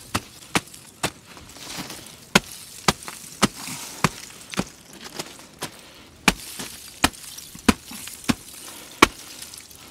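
Boots stamping and kicking into an icy crust, cutting footholds: a steady series of sharp crunching knocks, about two a second, as the ice breaks under each blow.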